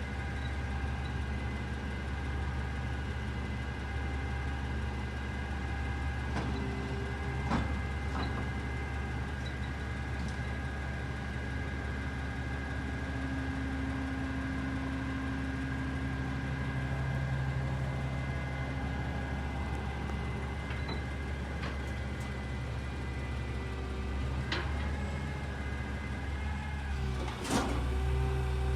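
Garbage truck engine running steadily with a low hum, broken by a few sharp clanks and knocks, the loudest near the end.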